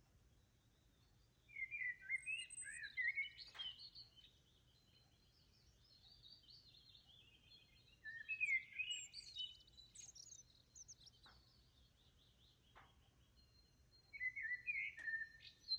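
Songbird singing in three bouts of quick, high, chirping phrases, with short quiet gaps between them.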